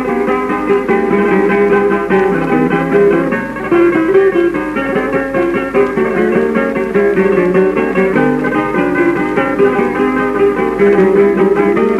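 Acoustic guitars playing an instrumental interlude of a tonada cordobesa, plucked notes and strums, from a 1934 78 rpm record, so the sound is dull with no high treble.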